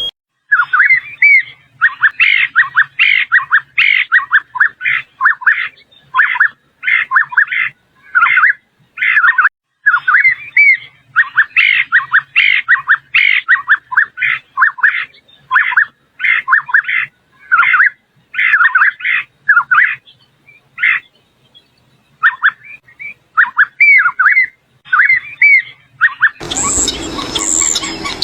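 Purple-throated euphonia (fim-fim, Euphonia chlorotica) singing: quick, repeated phrases of short twittering notes, with a brief pause about two-thirds of the way through. Near the end a different, noisier sound with high thin whistles takes over.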